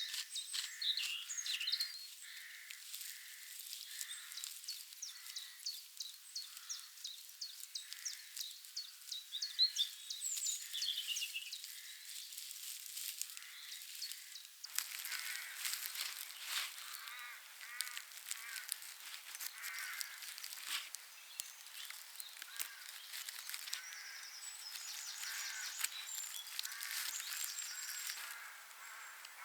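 Birds chirping and calling outdoors, with many short crackling clicks throughout. About halfway through the sound changes, becoming fuller and reaching lower.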